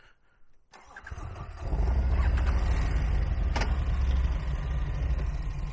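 Motorcycle engine starting about a second in, then running steadily and much louder from about two seconds in.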